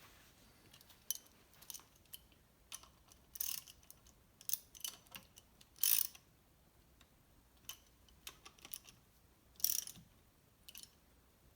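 Irregular metal clicks and clinks of hand tools and engine parts as a piston's connecting rod is fitted and secured onto the crankshaft journal of a two-stroke outboard-type engine. They come singly and in short clusters, the sharpest about six seconds in and again near ten seconds.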